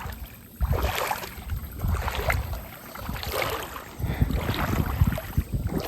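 Feet wading through a shallow creek: irregular sloshing and splashing steps in the water.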